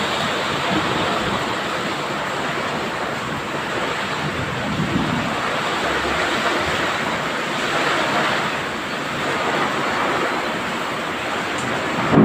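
Heavy rain pouring down with gusting wind: a steady rushing noise that swells and eases slightly.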